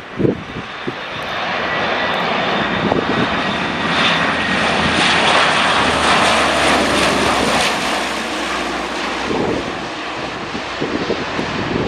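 Fixed-wing aircraft passing low overhead on its landing approach: the engine noise builds over the first couple of seconds, is loudest in the middle, and fades toward the end. A thin steady whine runs through the first half.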